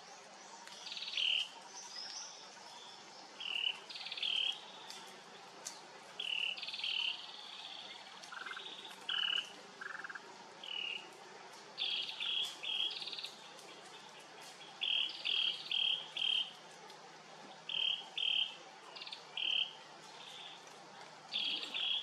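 Wild birds calling: short, high chirps repeated in quick clusters of two to four, with a few lower notes near the middle, over a faint steady background hum.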